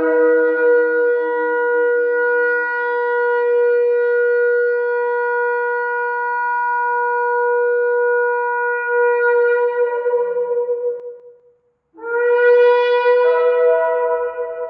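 Shofar blown in one long held blast of about eleven seconds. It starts on a lower note and quickly settles higher. About a second after it stops comes a second blast, which steps up in pitch partway through.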